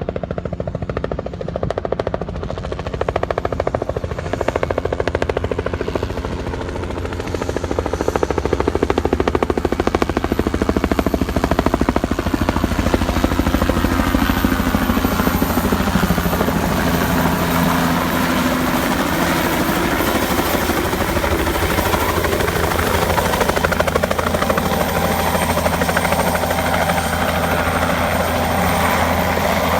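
Bell 206L LongRanger helicopter coming in to land: the rapid, even beat of its two-blade main rotor over a steady turbine whine. It grows louder about eight seconds in, then holds steady.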